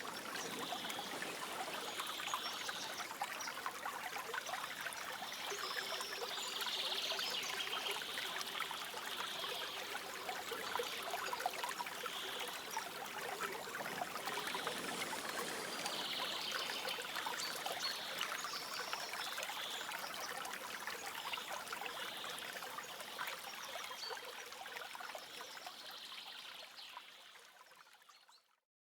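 Forest stream trickling steadily, with soft birdsong chirping on and off above it; the whole soundscape fades out near the end.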